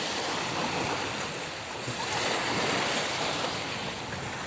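Sea waves washing steadily at the shore.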